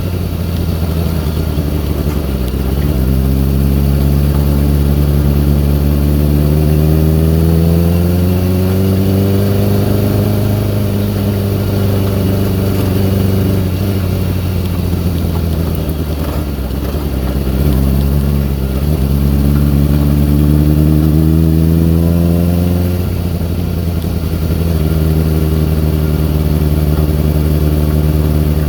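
2002 Kawasaki ZX-6R's inline-four engine running, its revs rising slowly to a higher speed and falling back twice, settling to a steady idle near the end. It makes an odd sound that the owner thinks is probably carburettor or fuel related after the bike sat unused.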